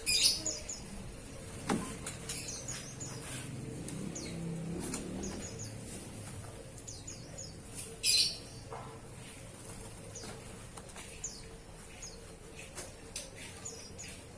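Oriental magpie-robin (kacer) giving short high chirps scattered throughout, with two louder, short, noisy bursts at the very start and about eight seconds in.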